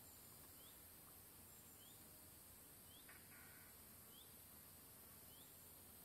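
Very faint nature ambience: a bird repeats a short, upward-sliding chirp about once a second over a steady high hiss.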